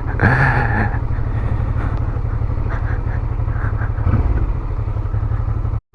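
Motorcycle engine running at steady, low revs, with a brief hiss in the first second; the sound cuts off suddenly just before the end.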